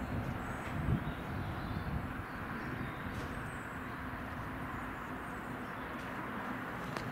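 Diesel multiple unit train running away along the track, a low rumble of engine and wheels that eases slightly after the first couple of seconds.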